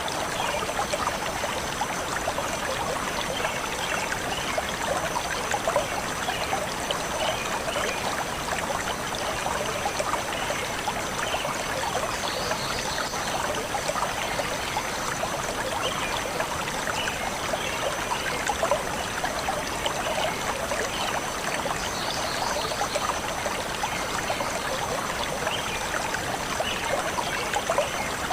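Water of a forest stream flowing and trickling steadily.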